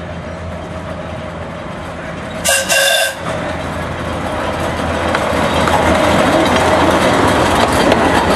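Narrow-gauge park locomotive pulling passenger cars: a short toot of its horn, in two quick parts, about two and a half seconds in, over a steady low drone. The train's running noise then grows louder as it approaches, with more and more clicks from the wheels and cars near the end.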